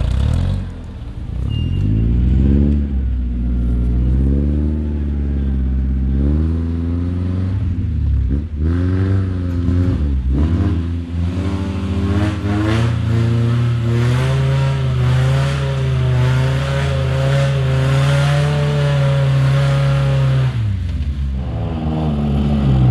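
Off-road 4x4 vehicle's engine revving hard under load, its pitch rising and falling repeatedly with two sharp dips around the middle, then held high and steady for several seconds before dropping near the end.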